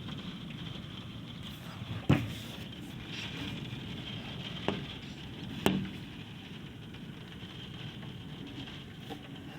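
Rain falling in the wind: a steady patter and rush, with three sharp taps standing out about two, four and a half, and five and a half seconds in.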